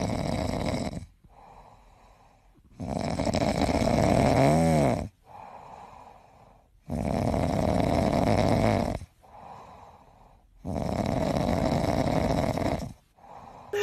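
A sleeping cat snoring: long snores about four seconds apart, each lasting about two seconds, with quieter breaths in between. Near the middle, one snore carries a brief whistle that rises and falls in pitch.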